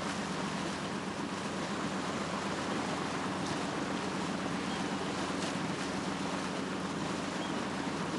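Steady wash of sea waves with a low, even hum underneath: the ambience of a boat out on the sea.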